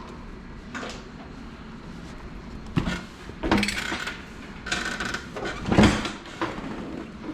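A handful of separate clunks and knocks over a faint steady background, the loudest about six seconds in.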